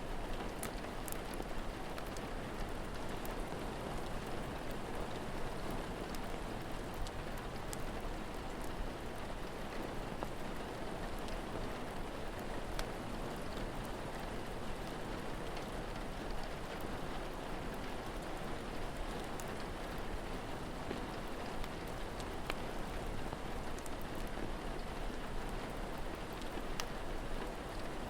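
Steady rain falling, with scattered sharp pops and crackles from a wood fire.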